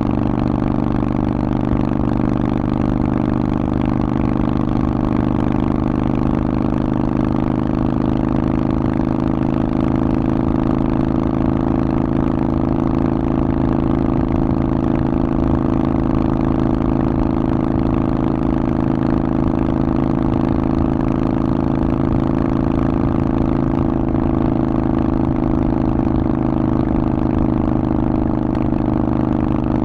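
Harley-Davidson Forty-Eight's air-cooled 1200 cc V-twin running through a Vance & Hines aftermarket exhaust, holding a steady, even engine speed with no revving.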